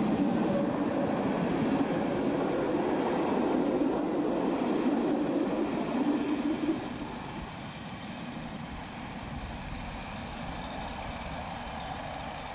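Passenger train rolling past at close range, a loud, steady rumble of wheels on the rails. About halfway through the sound drops off suddenly as the end of the train goes by, leaving a fainter sound of the train running away down the line.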